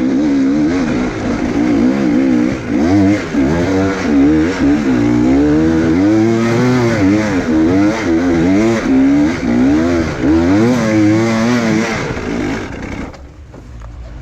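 Enduro motorcycle engine revving hard and unevenly, its pitch rising and falling every second or so under repeated throttle. The sound falls away abruptly near the end.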